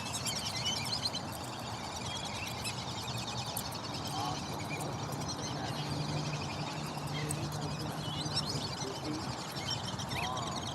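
Many birds chirping and calling over one another, a busy, continuous outdoor bird chorus.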